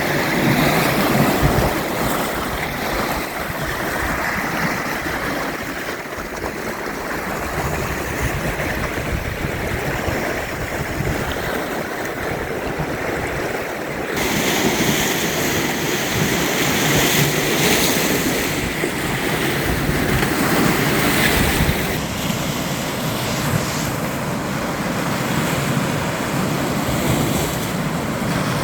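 Lake Superior waves washing onto the shore in a loud, surging rush, with wind buffeting the microphone. The sound changes abruptly twice, about halfway through and again later.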